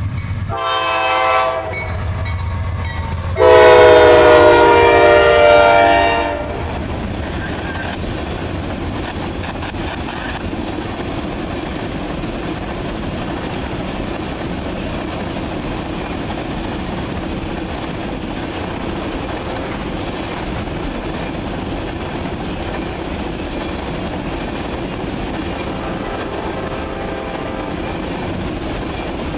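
A CSX GE C40-8W locomotive's air horn sounds a short blast about a second in, then a long, loud blast from about three to six seconds, over the rumble of the diesel engines. After that a long train of tank cars rolls past with steady wheel noise and clickety-clack over the rail joints.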